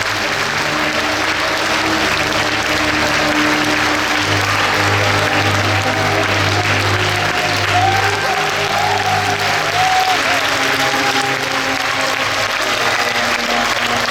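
Theatre audience applauding continuously over loud live rock-band music with a steady bass.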